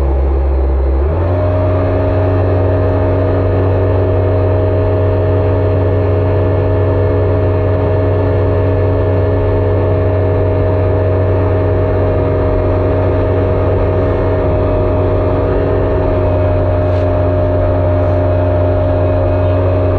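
Jet ski engine running under throttle; about a second in, the engine note steps up to a higher pitch and then holds steady at cruising speed.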